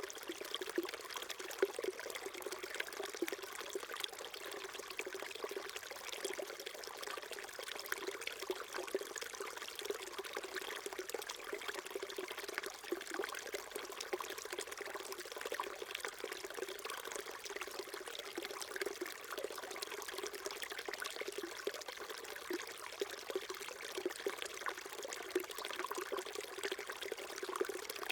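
Small mountain stream flowing steadily, with water splashing and gurgling over rocks.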